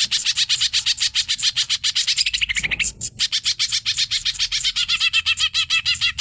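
Green leafbird (cucak ijo) singing a fast, unbroken run of repeated chattering notes, about eight a second, with a brief break a little under halfway through.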